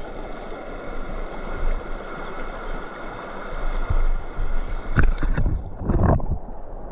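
Shallow river water rushing steadily over a riffle, with a couple of sudden louder knocks about five and six seconds in.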